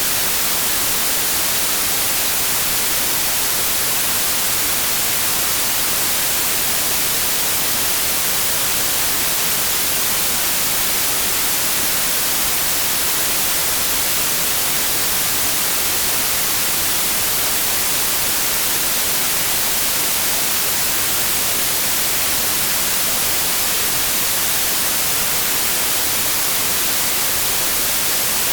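Steady synthesized white noise: an even, unbroken hiss, strongest in the high frequencies.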